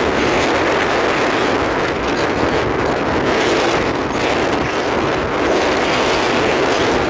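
Rough, stormy sea: a steady, loud rush of waves and surf, with wind buffeting the microphone.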